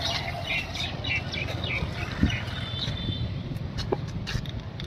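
Small birds chirping in short repeated notes over a steady low rumble, with a single thump a little over two seconds in.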